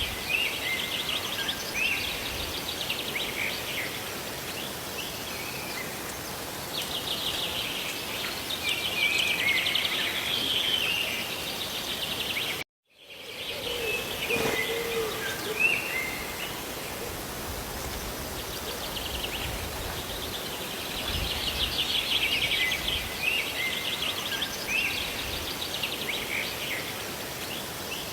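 Steady hiss of rain and falling water, with small birds chirping in fast trills that come and go. The sound cuts out completely for a moment a little under halfway through, then resumes.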